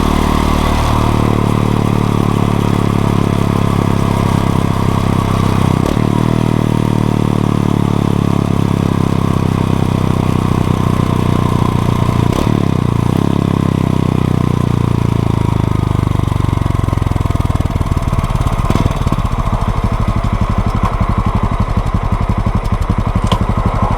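Honda XRE 190's single-cylinder engine running. Its pitch falls slowly over about fifteen seconds as the engine slows, then holds low and steady near the end.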